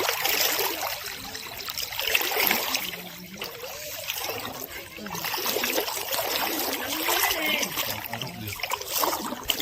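Floodwater rushing and splashing, a steady churning hiss that swells and eases over the seconds.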